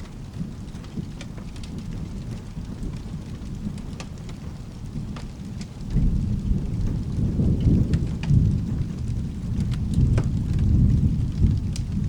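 Steady rain with a deep rumble of thunder that swells sharply about halfway through and keeps rolling. Scattered sharp ticks sound over it.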